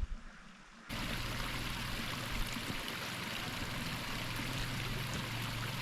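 Steady rushing sound of running water, starting abruptly about a second in and then holding even.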